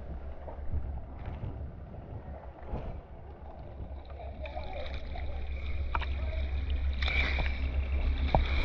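Tour boat's motor running under way, with a steady low rumble of wind on the microphone and water noise. About halfway through a steady whine comes in and the sound grows louder.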